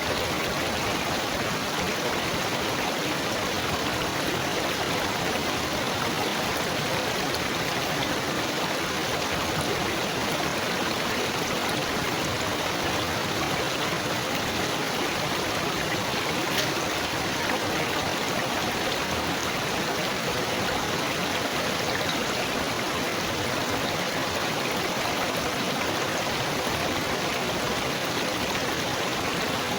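Water trickling and babbling, a steady, unbroken splashing rush.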